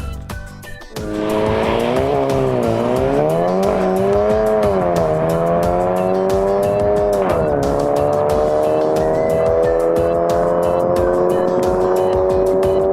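Car engine running hard at high revs, its pitch dipping and rising several times, then climbing slowly and steadily through the second half.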